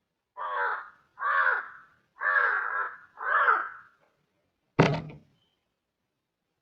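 A crow cawing four times, one harsh call about every second, followed a second later by a single sharp knock.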